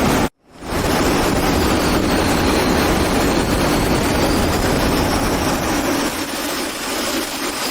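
Fighter jet engine noise: a loud, steady rush with a high turbine whine that slowly wavers in pitch. The sound cuts out for a split second just after the start, and the deep rumble eases after about six seconds.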